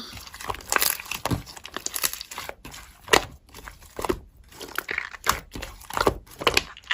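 Hands playing with slime, squishing and poking it, with irregular crackling and popping clicks.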